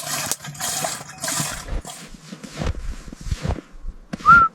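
Irregular rustling and scraping noise in uneven bursts, then near the end a person whistling a short rising note.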